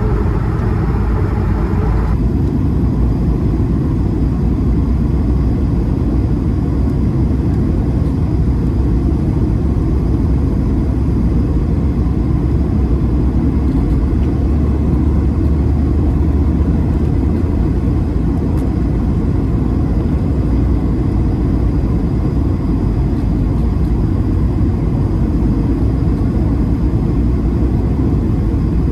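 Steady low rumble of an Airbus A220-300's cabin, engine and airflow noise heard from a window seat. About two seconds in, the higher hiss drops away suddenly, leaving the deep rumble.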